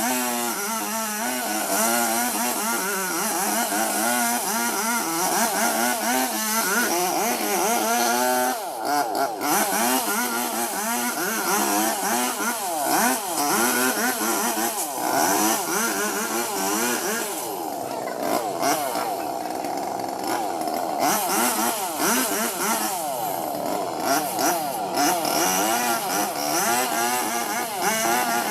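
Robin Plus two-stroke chainsaw running hard while cutting into a banyan tree, its pitch rising and falling over and over as the chain bites and frees. It holds a steadier, lower note for a few seconds about two-thirds of the way through.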